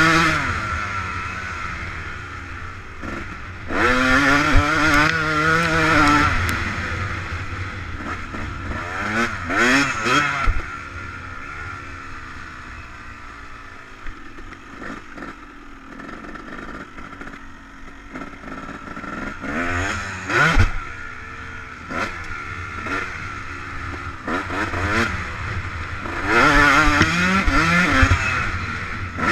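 Yamaha YZ250 two-stroke motocross bike revving hard in about five bursts, the engine pitch climbing and falling through the gears, with quieter running between.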